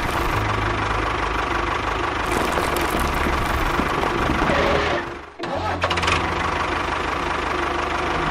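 Engine running steadily. It cuts out abruptly about five seconds in and comes straight back.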